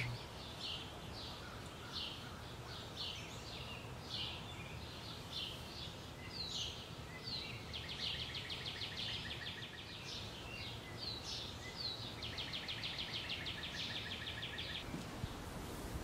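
Small songbirds chirping outdoors: short high chirps repeating about every half second, with two longer rapid trills a few seconds apart, over a steady outdoor background.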